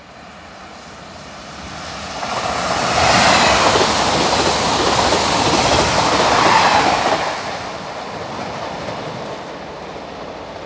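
A train passing on the track: a loud rushing noise that builds over about two seconds, stays at its loudest for around four seconds, then fades.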